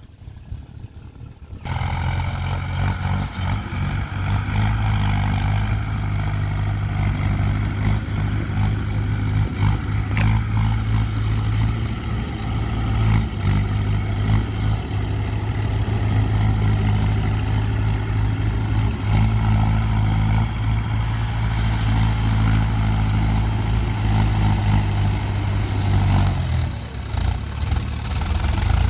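Diesel tractor engine running steadily at a constant speed, with some clatter over it. It comes in abruptly about two seconds in, and its note changes and drops near the end.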